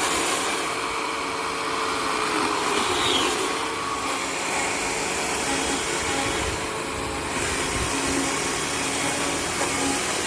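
Chainsaw running steadily as it cuts into a large log, roughing out a carving.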